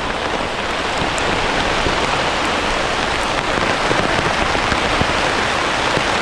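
Rain falling steadily: a loud, even patter of many drops.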